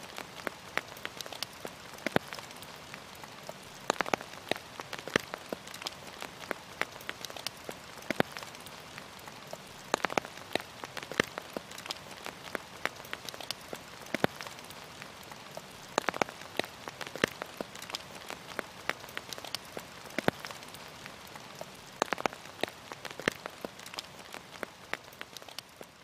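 Steady rain, with many separate drops ticking irregularly on a surface close by.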